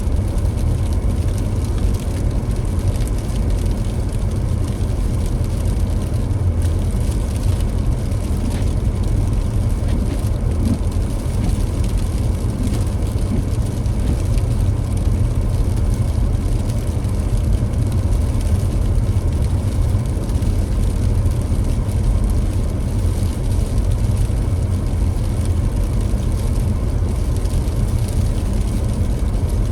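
A car driving at a steady pace: a constant low rumble of road and engine noise that holds steady throughout.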